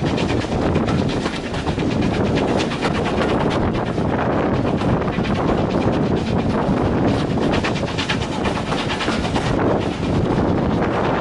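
Severn Valley Railway train running along the track: a steady rumble with fast, continuous rattling clatter from the wheels and carriages.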